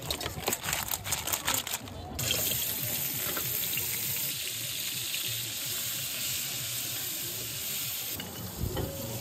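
A quick run of clicks and knocks, then from about two seconds in a steady loud sizzle as cut crab pieces fry in hot oil in an iron wok and are stirred with a spatula.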